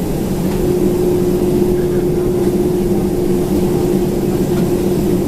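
Steady cabin noise inside a Boeing 767-400ER jet airliner: a low rumble with a steady hum, joined by a second, higher steady hum about half a second in.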